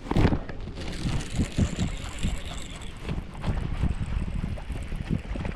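Water splashing and wind on the microphone as a hooked bass is fought beside a kayak. A sudden loud rush comes about a quarter second in, followed by uneven thumps and sloshing.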